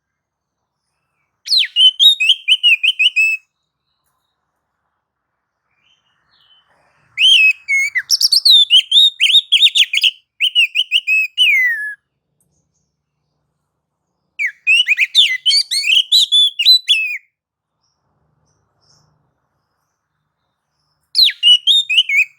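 Oriental magpie-robin (kacer) singing in its aggressive 'nagan' mode: four bursts of rapid, varied whistled notes, the longest about five seconds, separated by silent pauses.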